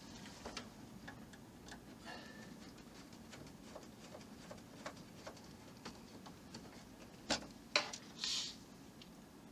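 Scattered light clicks and taps of tiny screws and a screwdriver being handled on a plastic model base, with two sharper clicks and a short scrape near the end.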